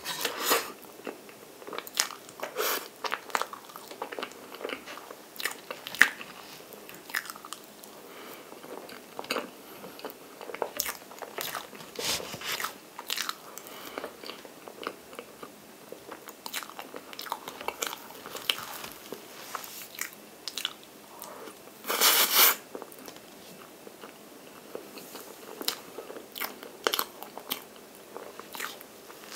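Close-miked eating of soft chocolate chiffon cake layered with whipped chocolate cream: wet chewing and many short, sticky lip-smacking clicks. About two-thirds of the way through comes one louder sound lasting about half a second.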